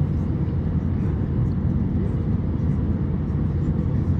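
Airbus A350-900 cabin noise during takeoff, heard from a window seat: the Rolls-Royce Trent XWB engines at takeoff thrust make a loud, steady, deep rumble.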